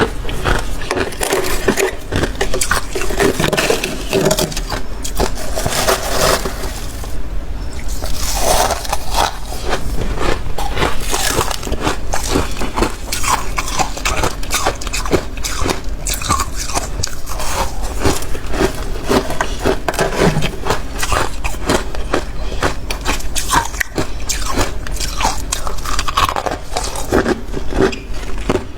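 Freezer frost being bitten and chewed close to the microphone: a dense, continuous run of crisp, crackly crunches, with a brief pause about seven seconds in.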